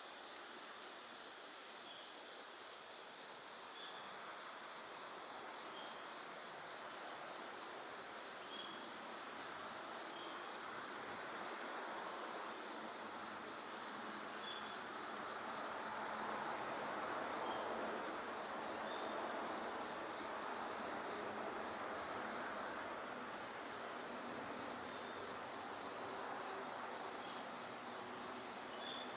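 Crickets chirping steadily: a continuous high trill, with a lower chirp repeating about every two and a half seconds. Beneath it is a soft, even hiss from the burning wood fire.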